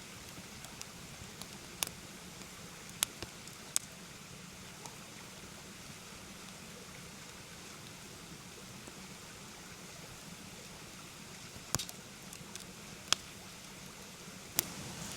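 Steady rush of a mountain stream, with a handful of sharp, irregular pops from a wood campfire.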